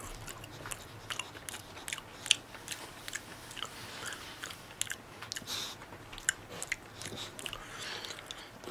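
A person chewing a mouthful of dry edible crickets, with irregular crisp crunches; the loudest crunch comes a little over two seconds in.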